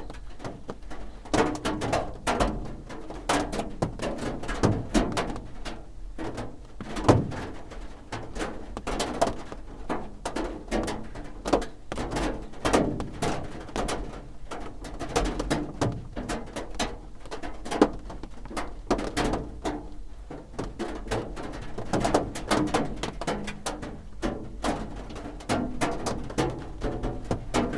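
Raindrops drumming on a roof: a dense, irregular patter of many separate drops, with now and then a louder single strike.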